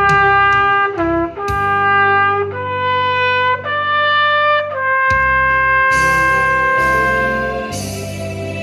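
Trumpet playing a slow melody in long held notes, each note steady in pitch, over a backing track; the last note is held for about three seconds before the melody stops near the end.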